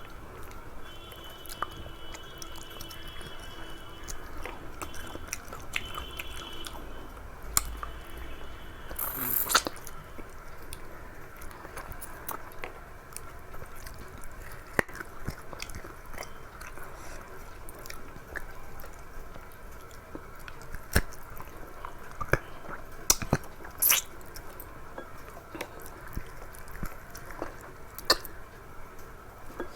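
A person chewing and eating a rice-and-curry meal close to the microphone. There are wet mouth sounds and many short sharp clicks, with a louder noisy burst about nine seconds in.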